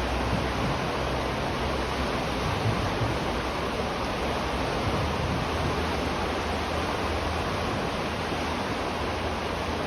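River water flowing, heard from beneath a bridge: a steady, even rush with a low rumble.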